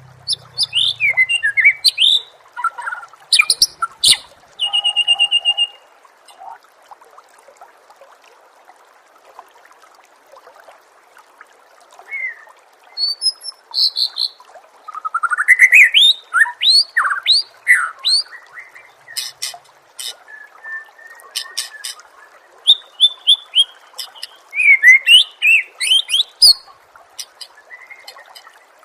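Songbird singing in bursts of rapid whistles, chirps and trills with quiet gaps between phrases, over a steady hiss.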